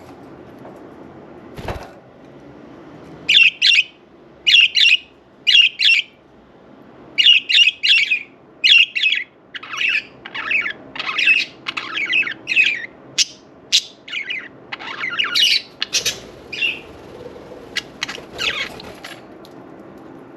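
Budgerigars chirping and squawking in quick, loud calls, often in pairs, starting about three seconds in and going on until near the end.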